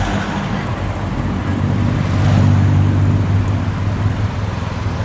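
A motor vehicle's engine running close by, a steady low hum that grows louder about two seconds in, over street traffic noise.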